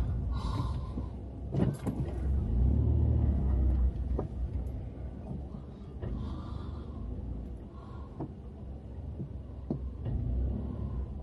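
Car engine running at low speed, heard from inside the cabin as the car is manoeuvred into a parking space, louder for a couple of seconds and then easing off, with a few light clicks.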